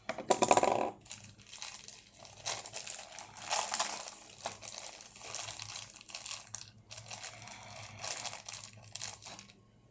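Plastic packaging crinkling and rustling as a toy spinning-top kit is unwrapped by hand, with a loud burst right at the start and irregular crackling after it.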